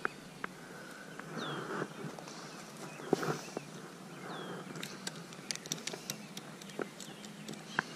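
A small bird gives two short downslurred chirps, about three seconds apart, over scattered sharp clicks and brief rustles from a spinning rod and reel being cast and reeled in.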